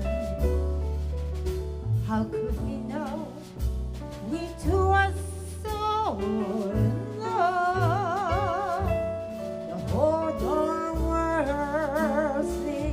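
Live jazz ballad: a band with a low bass line under a high lead line that holds long notes with wide vibrato.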